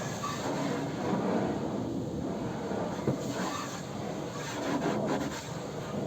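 Irregular rubbing and scrubbing on a car's body during a wash, with scattered light knocks.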